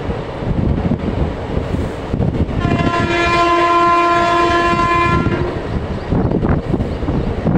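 Moving passenger train rumbling along the rails, with wind noise from the open coach door. About a third of the way in, a single steady train horn blast sounds for about three seconds.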